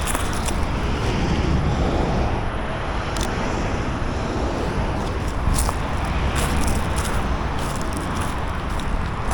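Steady low outdoor rumble with scattered light clicks and taps.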